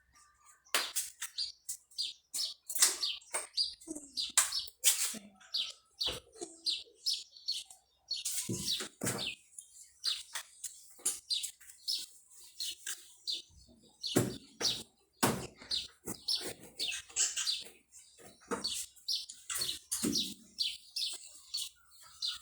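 Refrigerator being scrubbed with a soapy sponge: short, irregular scrubbing strokes, with a few louder knocks and handling sounds now and then.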